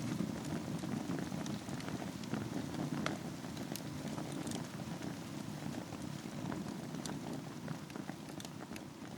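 Wood fire burning in a fireplace over a bed of embers: a steady low rush of flame with irregular sharp crackles and pops from the burning wood.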